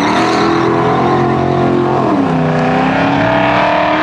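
Performance car engine accelerating hard from a launch, its pitch climbing with the revs. About two seconds in the pitch falls sharply at a gear change, then climbs again.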